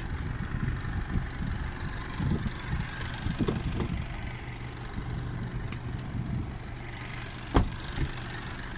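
Car engine idling with a steady low hum; a single sharp knock near the end.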